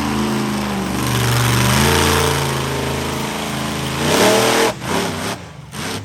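Monster truck engine revving hard, its pitch rising and falling over and over. About four seconds in it climbs once more, then drops off into short throttle blips with gaps between them.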